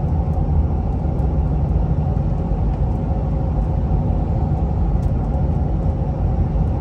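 Inside the cab of a Ford 6.7 Powerstroke V8 turbodiesel pickup cruising at 70 mph: a steady low drone from the 5-inch exhaust with no muffler or resonator, mixed with road and wind noise.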